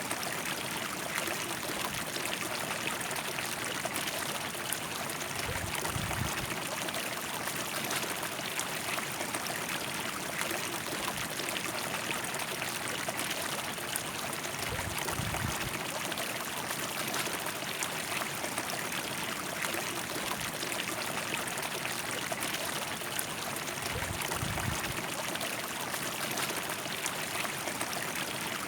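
River water flowing steadily, a continuous rushing and trickling. Three brief low rumbles come at even spacing, about every nine seconds.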